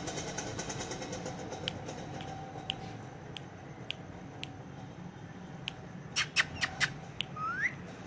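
Indian ringneck parakeet making soft, scattered clicks and chirps, then a quick run of loud, sharp chirps about six seconds in, followed by a short rising whistle near the end.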